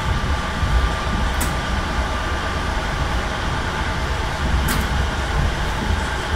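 Steady rumble of a regional passenger train running along the track, heard from inside the carriage, with two brief sharp ticks: one about a second and a half in, the other near five seconds.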